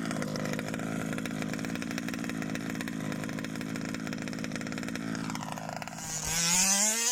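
Zenoah G320 two-stroke petrol engine of a 1/5-scale Rovan Baja RC car, breathing through a VRC big-bore exhaust, running at a steady high note. About six seconds in it revs up, rising in pitch and getting louder.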